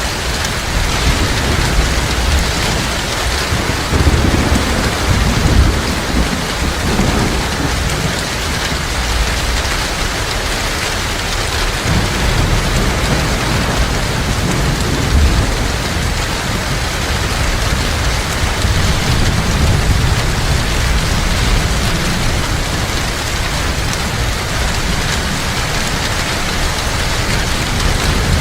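Heavy rain falling steadily, with low rumbles of thunder rolling in a few seconds in and again about two-thirds of the way through.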